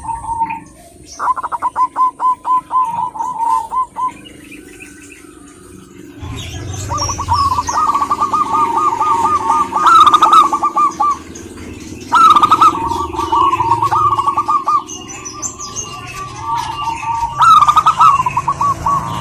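Zebra doves (perkutut) cooing: bouts of rapid, rolling staccato coos, several in a row with short pauses between them. Fainter high chirps of small birds come through alongside.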